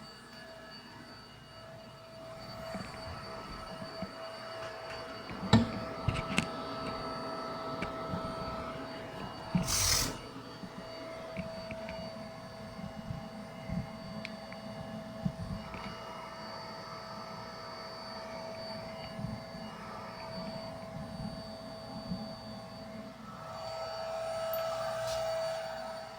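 Vacuum cleaner running with a steady whine as carpet edges and stairs are vacuumed, with scattered knocks of the tool against the surface and a brief loud rush of air about ten seconds in.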